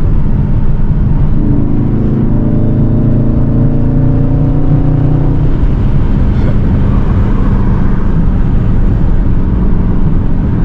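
Straight-piped Dodge Scat Pack's 6.4-litre HEMI V8 driving at part throttle, its exhaust drone loud and steady. The pitch rises gently for a few seconds, then shifts about halfway through.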